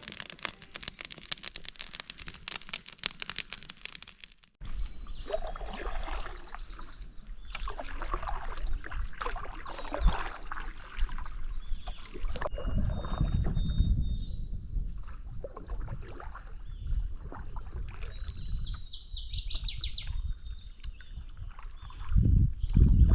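Background music for the first few seconds, then, after a cut, outdoor ambience: birds chirping and whistling over water sounds and a low rumbling noise that swells about halfway through and again near the end.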